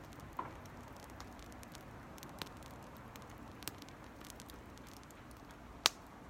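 Campfire burning with a soft steady hiss, crackling with scattered small ticks and a few sharp pops, the loudest near the end.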